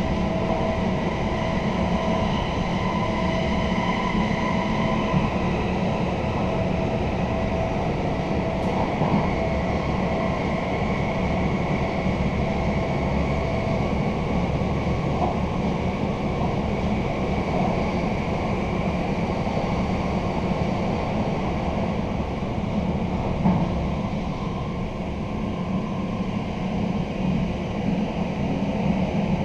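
Running noise of an Intercity train heard inside a passenger coach: a steady rumble from the wheels and track, with a faint whine during the first half.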